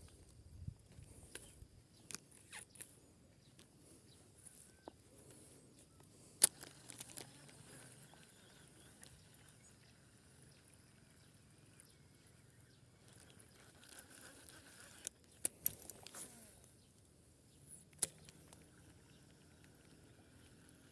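Scattered sharp clicks and knocks, the loudest about six seconds in and a short cluster near the end, over a faint steady outdoor background.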